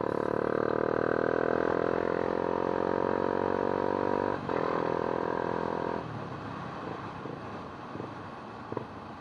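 Motor vehicle engine pulling hard with its pitch slowly rising, a short break about four seconds in like a gear change, then the throttle easing off about six seconds in. After that a lower rumble with a few light knocks.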